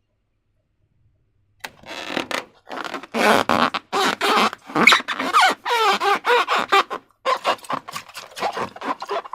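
Slime-filled rubber balloon being squeezed and kneaded by hand: wet squelching with short, bending rubbery squeaks. It starts after a brief silence and goes on in rapid, irregular squishes.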